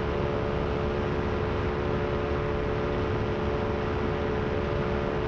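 Power2Fly RS paramotor's engine and propeller droning steadily at a constant pitch in cruise flight. The repaired, rebalanced propeller is running smoothly, without the vibration it had before the repair.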